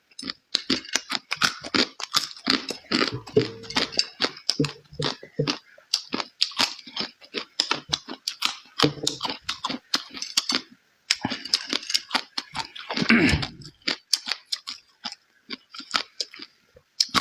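Close-miked eating: a person chewing and smacking through a mouthful of food, a rapid, uneven string of wet clicks. There is a short louder, deeper burst about 13 seconds in.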